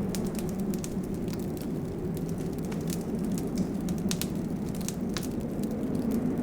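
Wood fire crackling in a fireplace: many quick, irregular sharp pops and snaps over a steady low rumble of the burning fire.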